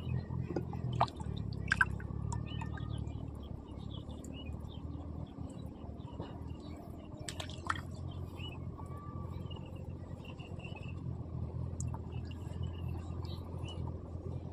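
Water dripping and lightly splashing, with a few sharp clicks about a second in and around the middle, over a steady low hum.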